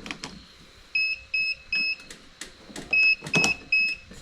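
An electronic beeper sounding repeated triple beeps, a group of three short, high, even beeps about every two seconds, with a few clicks and knocks between them.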